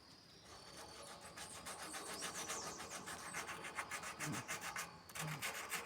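Sanding of a rusty iron fireplace: rapid, rhythmic rubbing strokes that grow stronger about halfway through. The rust has been treated with remover and is being sanded off as preparation for painting.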